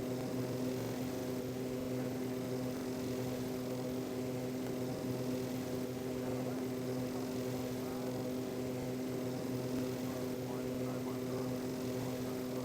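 Aeroplane engine drone: a steady low hum with several overtones that holds one pitch and level throughout.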